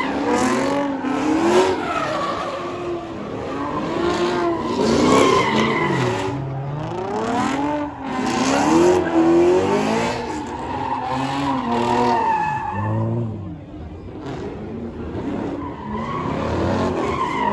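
A performance car's engine revving up and down again and again while its tires spin and squeal on the pavement, a car doing a tire-spinning stunt run.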